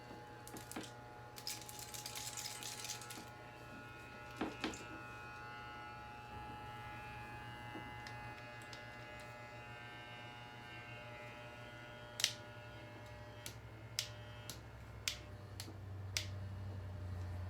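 Hair dryer's small electric motor running with a steady humming whine, with a few sharp clicks on top.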